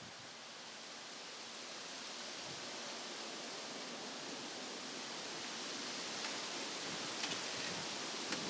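Steady background hiss that slowly grows louder, with a few faint clicks near the end.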